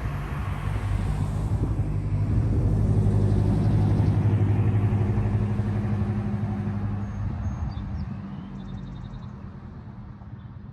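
A motor vehicle passing by: a low engine hum that grows louder, peaks a few seconds in, then fades away.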